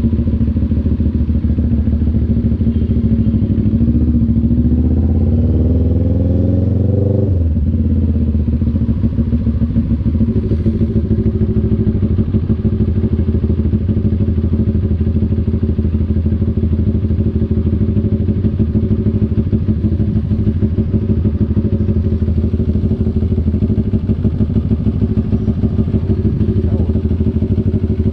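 CF Moto NK400 two-cylinder motorcycle engine running. Its pitch rises as it revs up from about three seconds in, drops sharply after about seven seconds, then holds steady at a lower engine speed.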